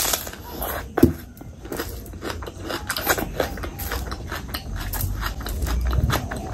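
Close-miked chewing and wet mouth sounds of a person eating rice and curry by hand: a steady run of small sticky clicks and smacks, with one louder smack about a second in.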